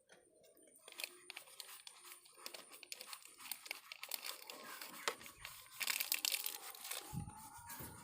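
Small brush scrubbing shampoo over a motorcycle engine's crusted casing: a dense, scratchy crackle of bristles, louder about six seconds in.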